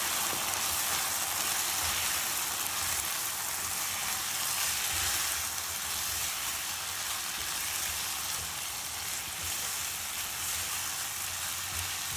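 Chicken thigh pieces frying in hot oil in a nonstick pan: a steady sizzle.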